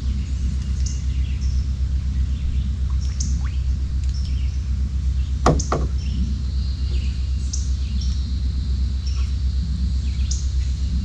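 Small birds chirping in short repeated calls over a steady low rumble, with two sharp knocks close together about halfway through.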